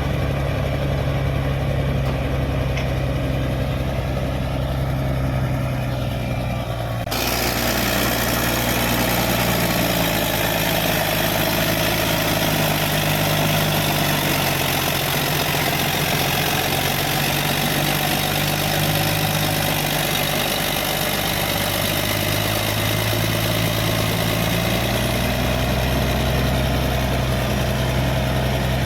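Caterpillar D6D bulldozer's six-cylinder diesel engine running steadily with a low hum. About seven seconds in, the sound abruptly gets brighter and fuller with added hiss and clatter, and the engine note then rises and falls slightly as it works.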